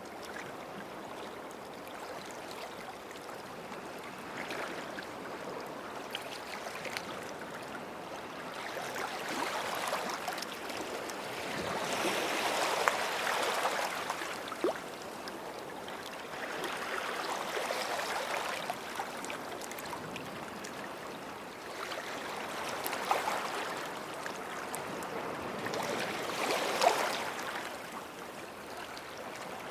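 Small sea waves washing up on a sandy beach, each swell rising and falling away every four or five seconds, with a few brief splashes at the peaks.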